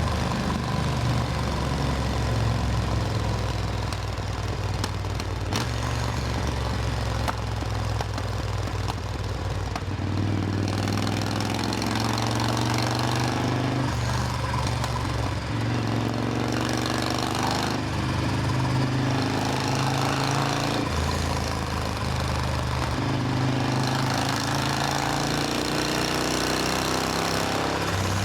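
Supercharged Triumph Thunderbird Storm's 1700 cc parallel-twin engine running while the motorcycle is ridden, its note changing in steps several times from about a third of the way in as the throttle and speed change.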